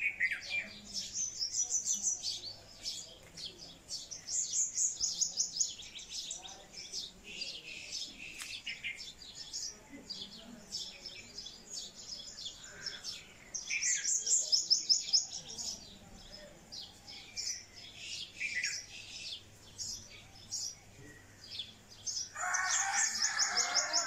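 Small birds chirping and twittering in the trees, with runs of high, rapidly repeated chirps every few seconds. A lower, busier run of chirps joins in near the end.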